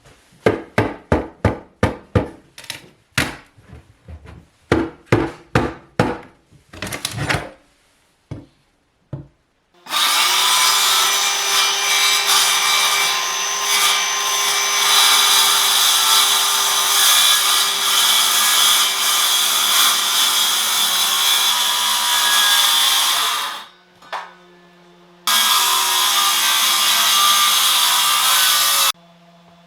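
A run of sharp knocks on wood, about two a second, over the first seven seconds or so. Then a power saw cuts into the wood with a steady whine for about thirteen seconds, stops, and runs again for a few seconds near the end.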